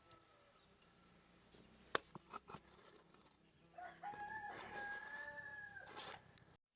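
A rooster crowing once, a single call of about two seconds that rises at the start and is held before it stops. A few sharp clicks come shortly before it.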